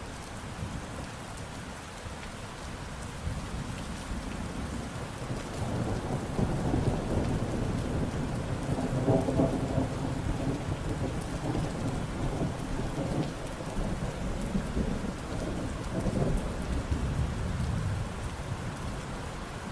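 Steady rain falling, with a long low thunder rumble that builds about a quarter of the way in, is loudest near the middle, and dies away toward the end.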